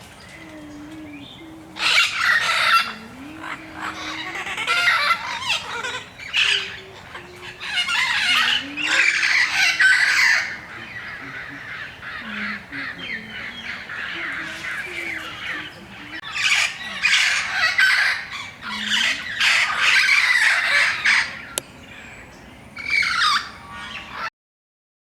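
Amazon parrots squawking: loud, harsh, grating calls in repeated bouts with short lulls between them. The audio cuts off suddenly just before the end.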